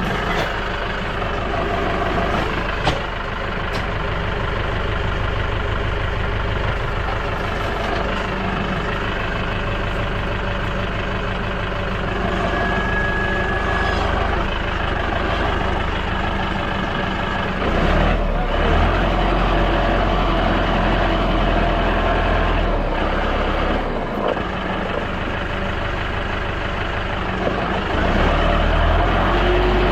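Tractor engine running steadily, its note and load shifting about two-thirds of the way through and again near the end.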